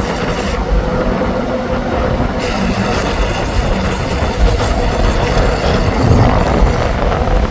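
Heavy machinery running steadily with a loud low rumble and a faint steady hum.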